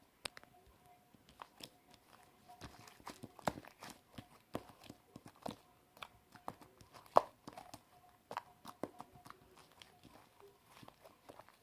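Slime being squished and stretched by hand, with irregular sticky pops and clicks.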